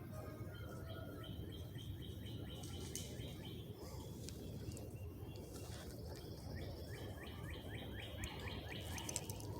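Songbirds singing and chirping, with a quick run of repeated down-slurred notes near the end, over a faint steady low background rumble.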